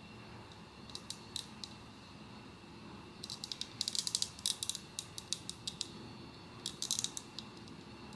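Sharp clicks and rattles from hands handling a Pop Mart blind box and its plastic figure and packaging. The clicks come in quick clusters: a few about a second in, a dense run in the middle and a short burst near the end.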